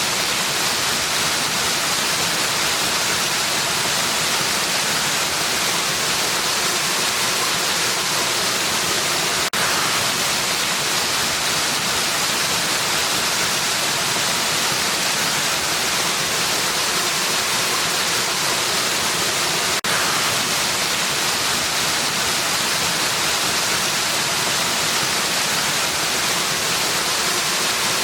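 Waterfall: a steady, dense rush of falling water, heaviest in the hiss range. The level dips for an instant twice, about ten seconds apart.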